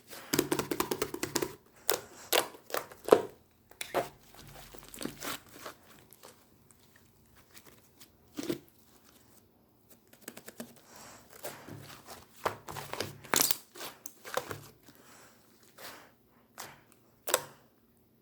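Pink slime being squished and stretched by hand, giving irregular crinkling, crackling and sharp popping clicks that come in busy clusters with quieter gaps between.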